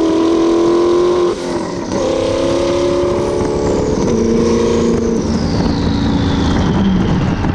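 Twin-turbo V8 of an Audi R8 run hard: a high engine note held for a little over a second breaks off, then the engine settles at lower notes that step down twice as the revs fall, while a faint high whine slides down in pitch.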